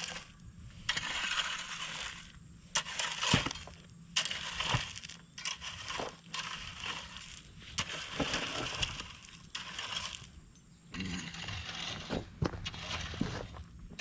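Gravel being scraped and shifted with a hand tool in repeated rough strokes, each about a second long, with a few stones clicking against one another.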